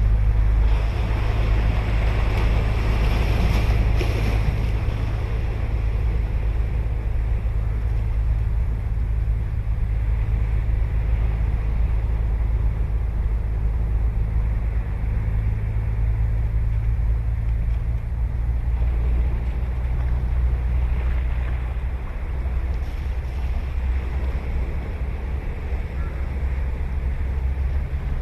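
Ocean surf breaking and washing up a sandy beach, the wash loudest in the first few seconds and then easing, over a steady low rumble.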